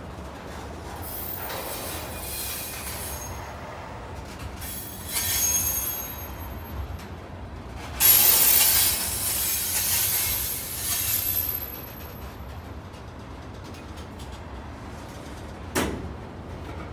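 Freight cars rolling past: a steady rumble of steel wheels on rail, with bursts of high-pitched wheel squeal. The loudest squeal starts about halfway through and lasts a few seconds, and there is a single sharp knock near the end.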